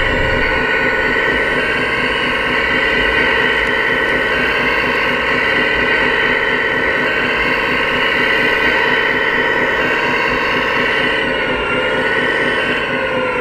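Scale RC construction machinery running steadily: a mechanical whine over a low pulsing rumble, with the pitch dipping briefly near the end.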